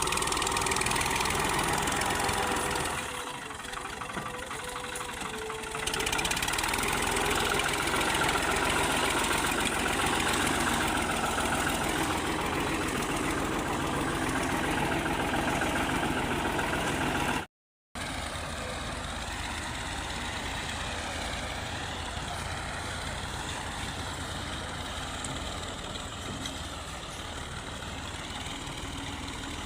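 Fiat 480 tractor's three-cylinder diesel engine running steadily. It drops in level for a few seconds, cuts out briefly just past halfway, and then carries on somewhat quieter.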